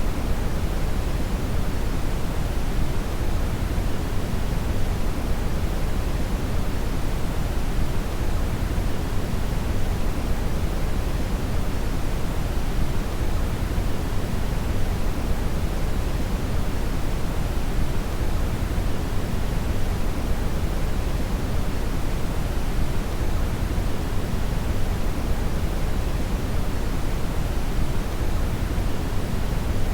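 Steady brown (red) noise: a deep, even rushing hiss weighted toward the low end, with no change throughout.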